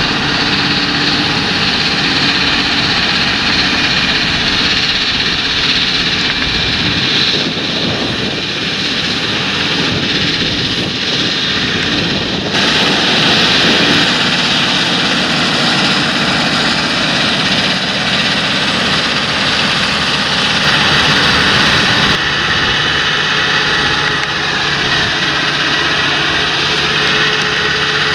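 Large John Deere tractor's diesel engine running steadily under load in field work, with a loud hissing whine over the engine note. The sound changes abruptly twice, about twelve seconds in and again about twenty-two seconds in.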